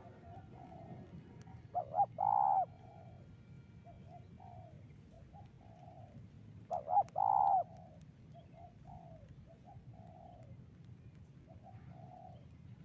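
Spotted doves cooing: two loud phrases about five seconds apart, each two short coos followed by a longer one, over fainter coos throughout.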